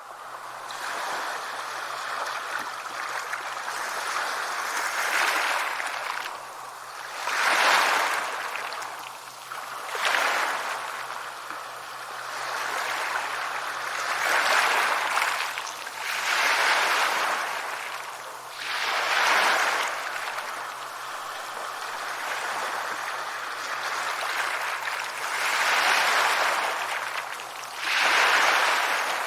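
Sea waves breaking and washing up a shore: a steady hiss of surf that surges every few seconds as each wave comes in.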